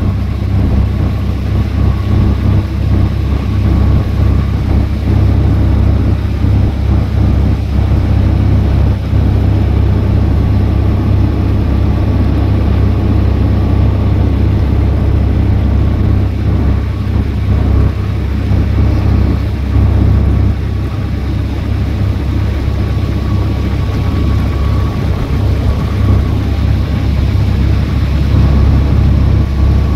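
Small fiberglass passenger boat's engine running steadily under way, a loud, even low drone with a faint steady whine above it.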